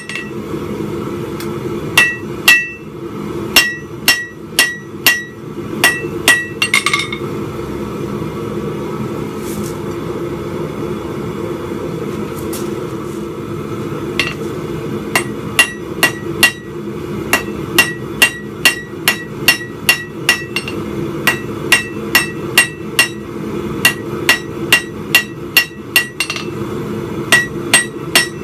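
Hand hammer striking hot steel on an anvil while forging a spike: ringing blows about two a second, broken by a pause of about seven seconds in the middle. A steady low hum runs underneath.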